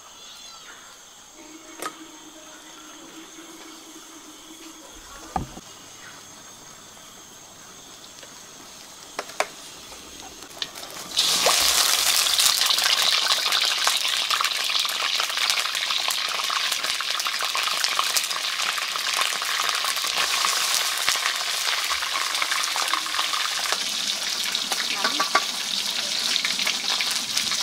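A few light knocks, then about eleven seconds in food drops into hot oil in a pan and sizzles loudly and steadily, frying.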